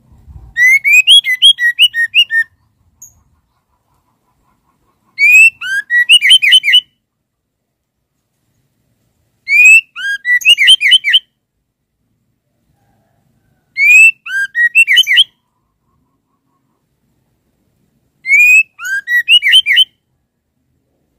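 Female white-rumped shama calling: five short phrases of quick, rising whistled notes, each phrase a second and a half to two seconds long and repeated about every four seconds. This is the call a female gives to draw a male.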